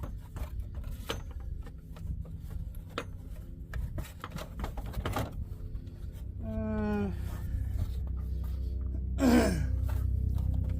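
Scattered clicks and knocks of hand tools on the engine's pulley and fan area over a steady low rumble. Two short pitched calls cut in, one at about six and a half seconds and a louder one, falling sharply in pitch, at about nine seconds.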